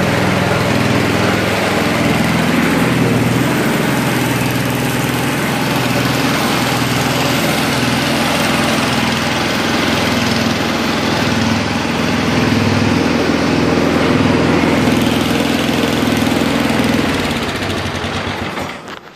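1971 Ariens snowblower's 7 hp Tecumseh single-cylinder engine running steadily at working speed. It winds down and stops near the end.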